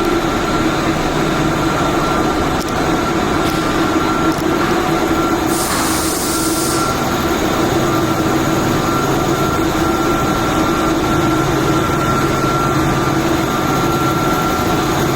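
Steady machine drone with two steady tones, and a short burst of hiss about six seconds in.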